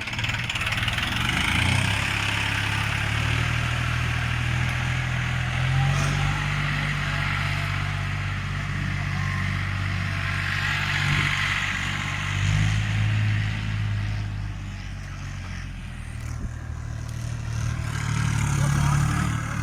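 Tractor engine running steadily under load, its revs rising and dropping a few times.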